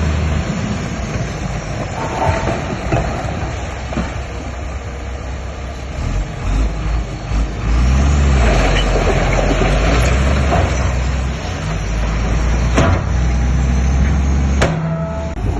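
Heavy diesel earthmoving machinery running under load, a deep engine drone that grows louder about halfway through, with a couple of sharp metallic clanks near the end.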